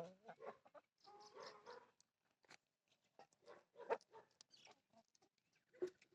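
Chickens clucking faintly, a handful of short clucks spaced out with quiet gaps between them.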